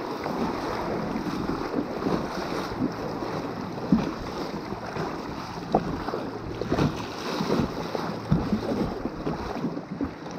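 Kayak running a riffle: rushing, splashing river water against the hull with wind buffeting the microphone, and a scatter of short knocks and splashes.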